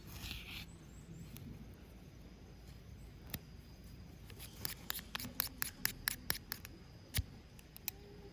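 A run of sharp, irregular clicks and snaps, several a second, from about four and a half to six and a half seconds in, with a few single clicks before and after.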